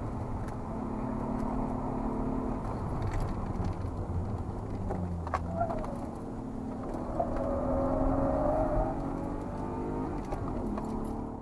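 BMW E36 320i's straight-six engine at track pace, heard from inside the cabin. Its note drops about halfway through, then climbs again as the car is steered through a corner.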